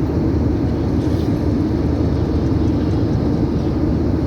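Steady low rumble of an airplane's engines and rushing air, holding even throughout.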